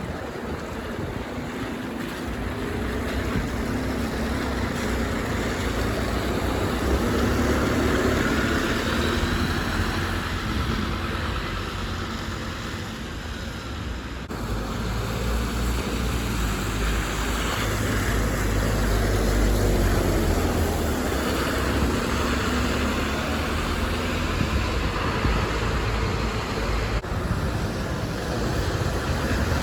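City bus engines running as buses move past, the sound swelling twice, the second time with a deep low rumble.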